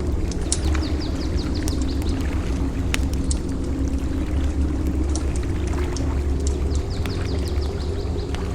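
Campfire crackling with scattered sharp pops over a steady low rumble of waves on the beach. Twice a quick run of short, high, falling chirps is heard, about half a second in and again near the end.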